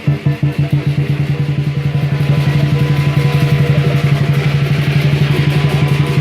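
Southern lion dance percussion: the big lion drum beating in quick strokes that speed up into a fast, steady roll, with cymbals clashing over it.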